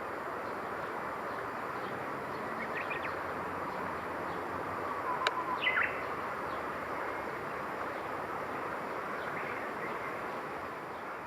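A few short bird chirps over a steady background hiss; the loudest is a brief falling call about five and a half seconds in, just after a single sharp click.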